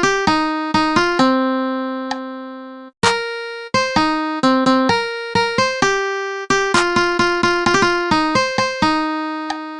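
Background piano music playing single notes and chords that ring and fade, with one longer chord dying away about three seconds in before the playing picks up again.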